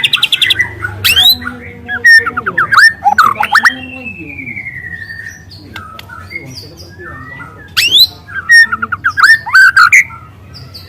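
A young white-rumped shama singing loud, varied phrases of sharp rising whistles and quick note clusters. About four seconds in comes one long falling slurred whistle, and after a quieter stretch the loud rapid bursts of notes return near the end.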